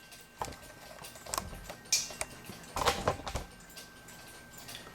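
Light, irregular clicks and taps of small metal clock parts being handled as a gear is worked into place in a Master Crafters waterfall clock movement, with a denser cluster of clicks around the middle.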